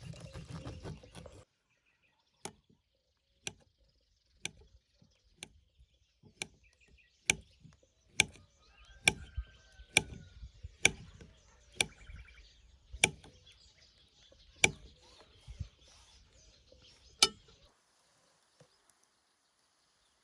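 Chopping with a blade on wood: about fifteen sharp strikes, roughly one a second, loudest in the middle, stopping a few seconds before the end. Birds chirp faintly in the background.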